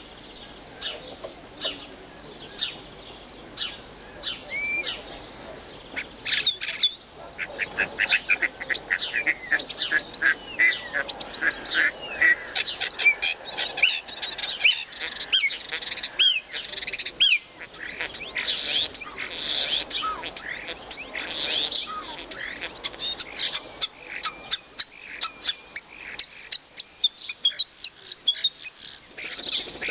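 Songbirds in a masteran (bird-tutoring) song recording: dense, rapid chirps and short whistled sweeps, with little pause, busier from about six seconds in.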